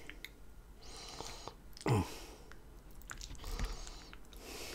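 Close-miked chewing of a mouthful of lasagna, with a metal fork clicking and scraping in an aluminium foil pan. A brief louder low sound comes about two seconds in.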